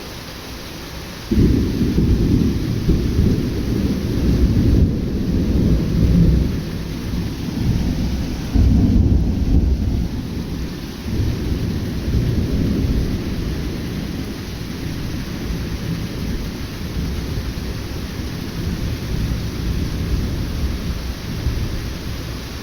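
Thunder breaks in suddenly about a second in and rumbles on long and deep, swelling again about eight seconds in before slowly dying away, over steady rain from a sudden summer thunderstorm.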